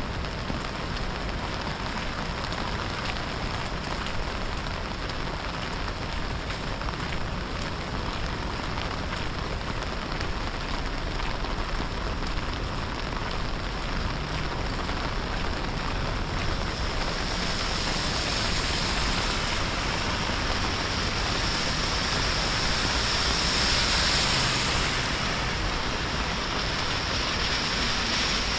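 Steady rain falling, an even hiss that grows a little louder and brighter about two-thirds of the way through.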